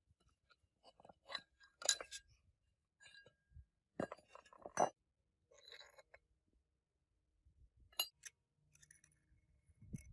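Metal parts and hand tools clinking, knocking and scraping in a series of separate, irregular strikes, the loudest about two, five and eight seconds in, as work goes on at a tractor's rear axle gearbox.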